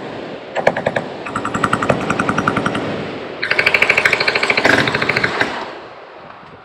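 Machine guns firing rapid bursts of automatic fire: a short burst, a longer one, then the loudest and densest burst, which stops about a second before the end and leaves a fading echo.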